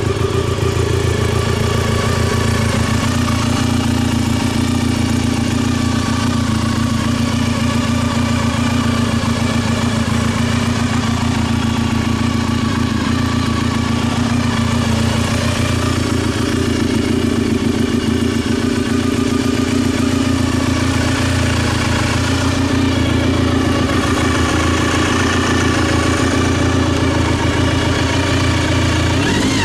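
Honda RVF400's V4 engine idling steadily through its exhaust, with the revs starting to rise right at the end.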